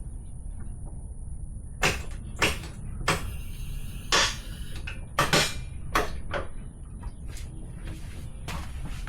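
Sharp metallic knocks and clicks from work on a motorcycle's rear wheel with a jack and hand tools, some evenly spaced and others irregular, over a steady low hum.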